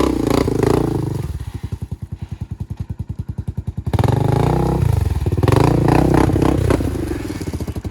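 Four-wheel-drive off-road vehicle's engine revving hard twice under load on a climb, running quieter between the surges, with some thumping and clatter.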